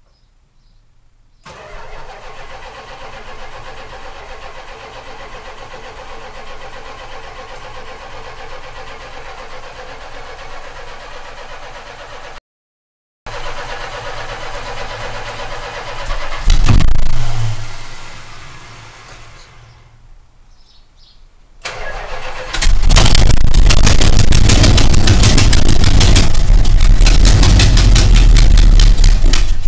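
A 1970 Dodge Charger's 440 big-block V8 being started for the first time. The starter cranks for a long stretch, the engine fires briefly and winds back down, then it cranks again and catches, running loud with rapid banging from several blown exhaust gaskets on the passenger-side cylinder bank.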